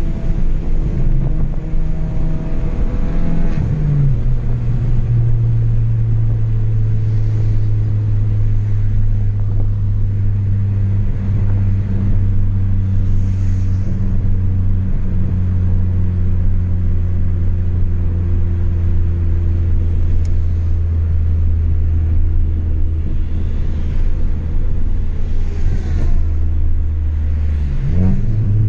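Chevrolet Astra 2.0's four-cylinder engine on a straight-through exhaust while driving. The pitch falls about four seconds in as the revs drop, then the engine holds a steady drone at cruising revs. Near the end there is a brief dip and rise in revs.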